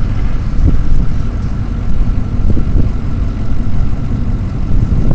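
Steady low rumble of a vehicle's engine heard from inside the cab, with a faint steady high tone above it.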